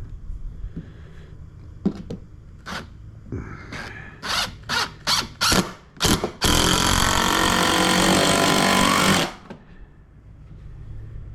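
Power drill driving a screw: several short trigger pulses, then a continuous run of about three seconds with a motor whine that stops abruptly.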